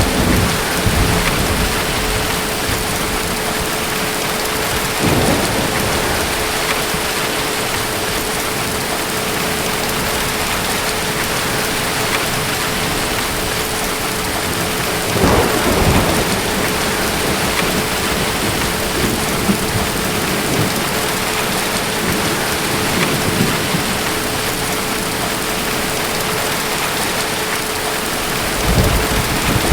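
Steady heavy rain falling, with low rumbles of distant thunder about five seconds in, a stronger one around the middle, and another near the end. A faint steady tone runs underneath.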